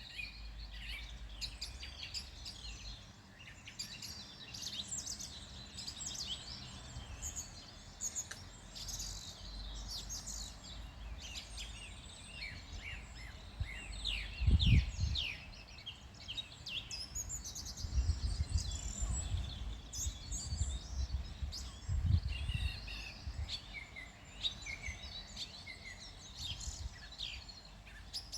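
Many small birds singing and chirping together, with quick, overlapping high calls and trills. A few low rumbles break in, the loudest about halfway through and again a little later.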